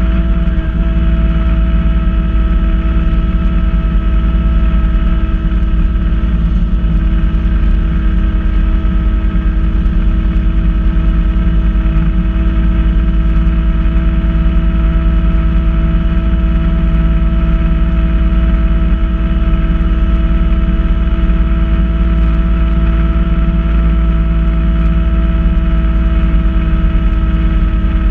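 Kubota B2650 compact tractor's three-cylinder diesel engine running at a steady speed, a low drone with a steady whine over it, while working a front-mount snow blower.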